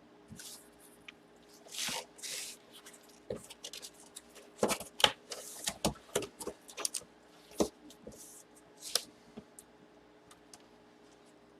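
Hands opening a cardboard box and handling the plastic comic slab inside: scattered sharp clicks and taps with a few brief rustling scrapes, over a faint steady hum.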